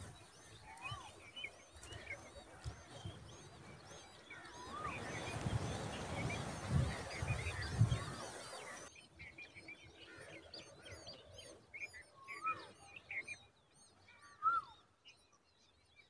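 Small birds chirping and calling: many quick, high, repeated chirps, with louder whistled notes that rise and then fall every second or two. A low rumble runs under the middle of it and stops about nine seconds in.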